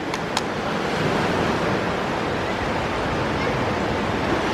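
Ocean surf washing steadily, with a couple of light clicks right at the start.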